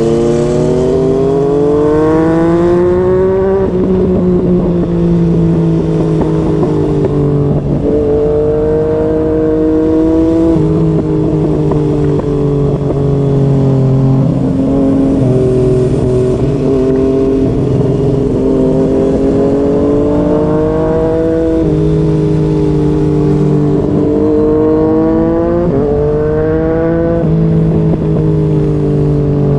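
2020 Yamaha MT-09's three-cylinder engine through a Yoshimura R55 slip-on exhaust, accelerating on the road. Its pitch climbs and then drops sharply several times as the rider shifts gears and rolls the throttle.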